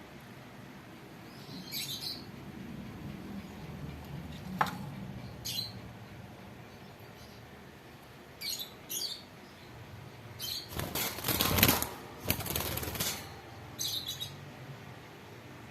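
Pet African lovebird giving short, high chirps every few seconds, with a sharp tap about a third of the way in. About two-thirds of the way through comes a couple of seconds of loud wing flapping.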